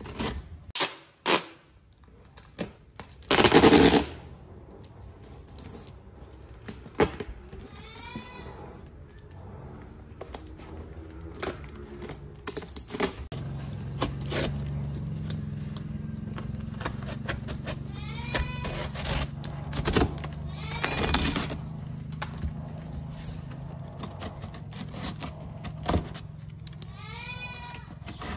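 Utility knife cutting through corrugated cardboard: clicks and scraping as the blade works along the box, with one loud tearing rasp a few seconds in. Short high cries from a young animal come now and then over it.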